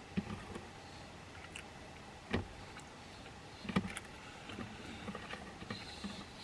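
A few sharp knocks and clatters of objects being handled, with smaller clicks and dull taps between; the loudest knock falls a little past the middle.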